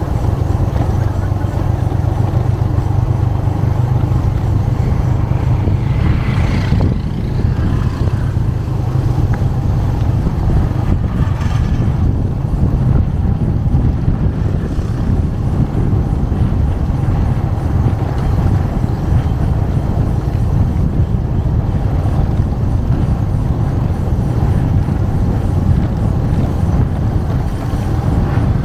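Motorcycle engine running steadily under the rider, a constant low drone mixed with wind rush on the microphone. A brief burst of brighter noise comes about six seconds in.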